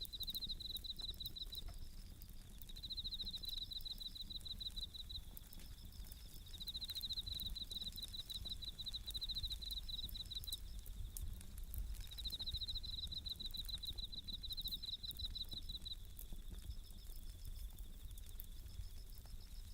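Bell crickets (suzumushi) singing in repeated high, pulsing trills of a second or two each, with short gaps between, over the scattered crackle and pops of a wood campfire.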